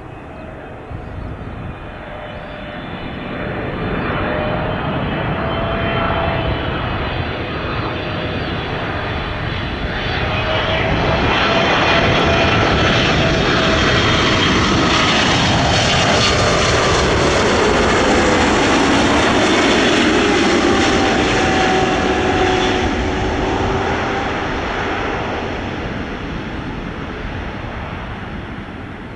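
Airliner's engines passing close by: a rumble that swells over several seconds, stays loud, then fades, with whining tones that slide down in pitch as it goes past.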